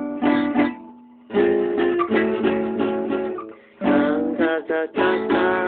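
Acoustic guitar playing a chord picked note by note and left to ring: open first string, second string at the third fret, third string at the fourth, fourth string at the fifth. It is sounded again about four seconds in.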